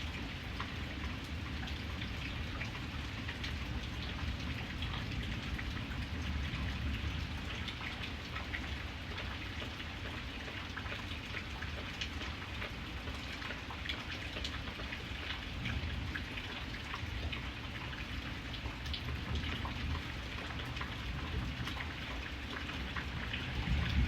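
Steady rain falling, with many individual drops ticking throughout over a steady low rumble.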